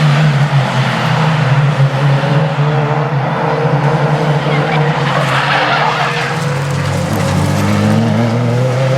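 Renault Clio Cup race car engine running hard at a fairly steady pitch, then rising as it accelerates near the end, with tyres squealing in the middle.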